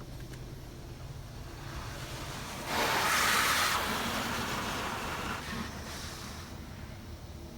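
PDQ LaserWash 4000 touchless car wash spraying pre-soak foam over the car as its gantry passes: a hiss of liquid on the body rises sharply about three seconds in, stays loud for about a second and fades over the next two, over a steady low hum.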